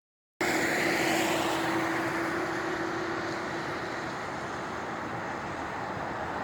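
Road traffic noise: a vehicle going by on the road, cutting in suddenly and easing off, with a steady hum that fades out about halfway through.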